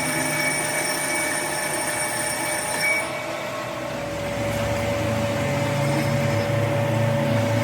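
Workshop machine running steadily with a whine of several high tones that drop away about three seconds in, leaving a steady mid-pitched tone over a low hum.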